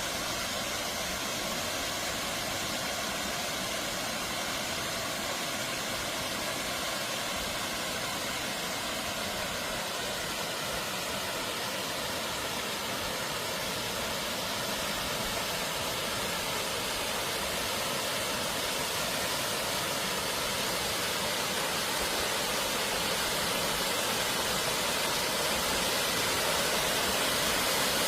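Water of an artificial waterfall pouring down in a steady rush, growing gradually louder toward the end.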